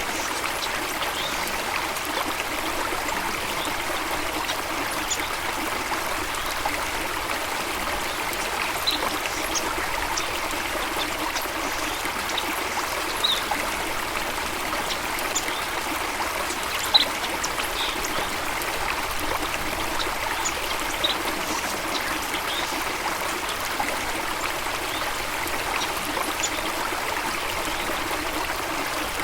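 Steady rush of flowing water from a stream or small waterfall, with short high bird chirps scattered throughout.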